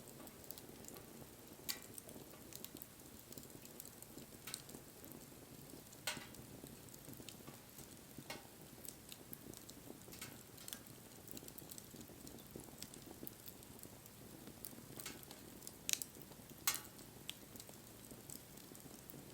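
Wood fire crackling: a soft steady hiss of the burning with irregular sharp pops from the wood, two louder pops near the end.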